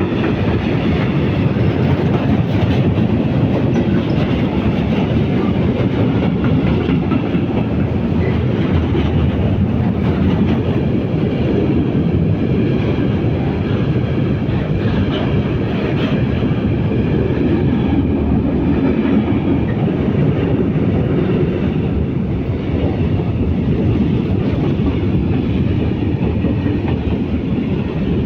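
A train running on rails: a loud, steady rumble of wheels and cars that holds at an even level throughout.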